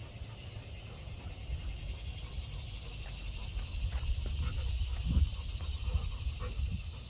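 Steady, high-pitched insect hiss that swells in over the first two seconds and then holds, over a low wind rumble on the microphone, with a few soft knocks about five seconds in.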